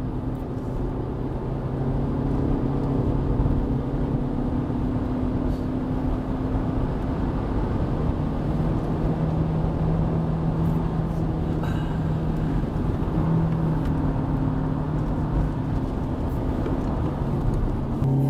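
Hyundai Avante (CN7) 123-horsepower four-cylinder engine droning at fairly steady revs under its CVT, heard inside the cabin over tyre and road noise; the engine note rises a little about eight seconds in.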